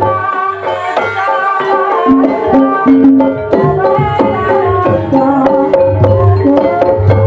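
Live Javanese gamelan music for an ebeg dance: rapid kendang hand-drum strokes over pitched instruments playing a melody.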